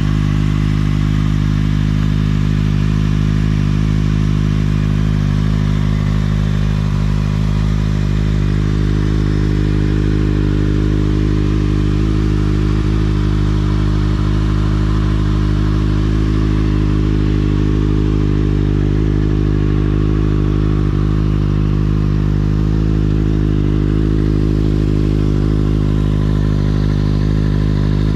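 Kawasaki ZX-6R 636 inline-four sport bike engine idling steadily through an Akrapovič exhaust, holding an even note with no revs.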